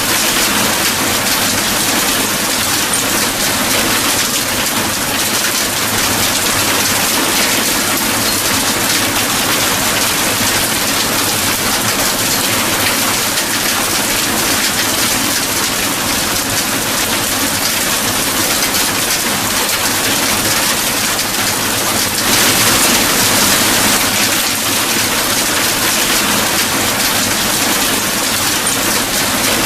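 Steady, heavy rain falling, an even hiss of drops with a brief swell in strength about three-quarters of the way through.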